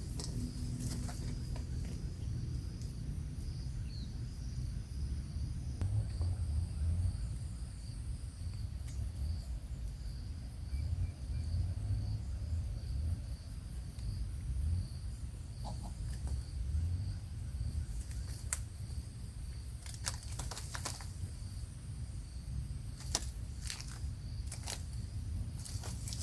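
Outdoor ambience: a continuous low rumble under a steady, faint high-pitched drone, with a few sharp clicks in the second half.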